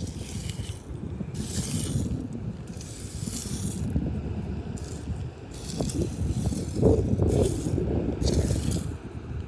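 Loose seashells rattling and scraping against each other in repeated short bursts, over a low rumble of wind on the microphone.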